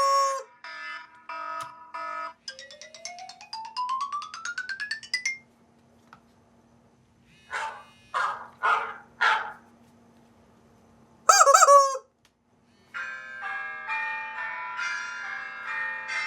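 iPhone ringtones playing one after another: a beeping tone ends, then a quick rising sweep of notes. Then four short squawks and a loud, squeaky honk with a bent pitch, and about thirteen seconds in a new melodic ringtone with many overlapping notes begins.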